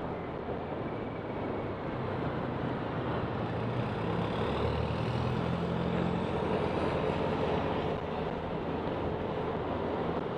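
Honda Click 125 scooter's single-cylinder engine running under way, with wind and road noise; the engine note grows louder for a couple of seconds in the middle.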